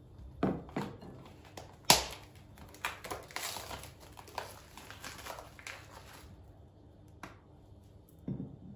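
Household handling sounds: a sharp knock about two seconds in, then a few seconds of rustling, with scattered light knocks before and after.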